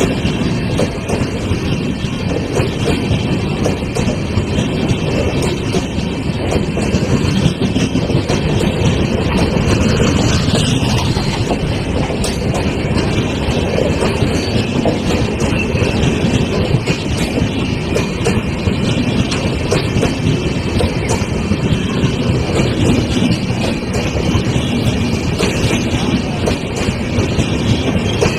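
Coaches of an Indian Railways express train passing close by at speed: a loud, steady rumble of wheels on the rails with a constant clatter of wheels over the track.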